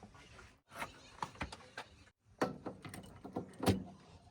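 A series of irregular clicks and knocks, more of them in the second half, the loudest about three quarters through.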